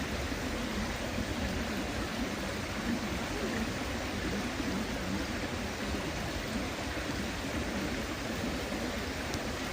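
A river flowing over stones with a steady, even rush of water.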